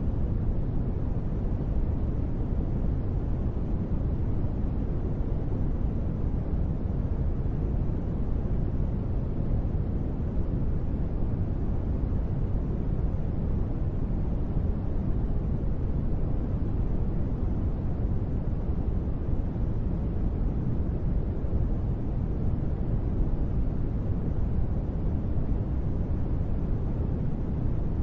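Steady white-noise sleep sound sold as gentle rain: a constant, even rush weighted toward the low end, deep rather than hissy, with no separate drops, thunder or changes.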